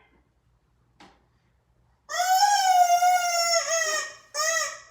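A dog vocalising: one long, high whining howl of about two seconds that sags slightly in pitch, then a short second one.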